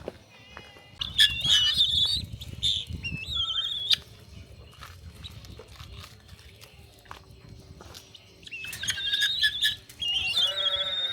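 Animal calls: two spells of high, wavering cries, one about a second in and one near the end. A lower call rises in pitch near the end, and a low rumble runs under the first spell.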